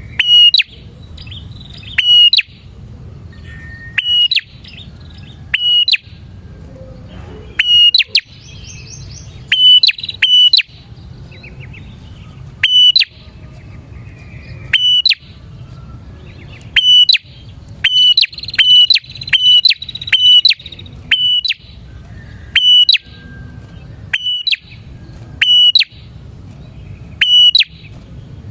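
Prinia (prenjak) calling loudly: sharp, short, high notes repeated every second or two, bunching into a quick run of several notes about two-thirds of the way through, over a steady low background rumble.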